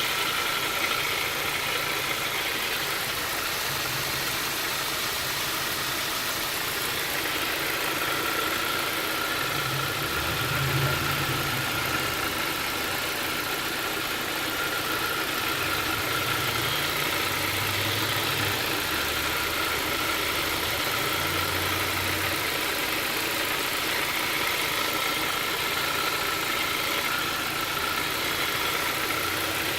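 Car engine idling, with a thin high whine over it and a low rumble that comes and goes. This is the unusual noise the owner calls weird.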